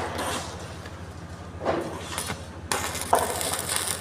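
A steady low machine hum; a little before three seconds in, the dense crackling hiss of arc welding on the steel frame starts and keeps going.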